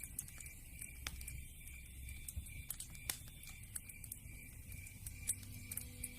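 Wood fire in a fireplace crackling, with irregular sharp pops and snaps over a soft hiss; two louder pops come about three and five seconds in.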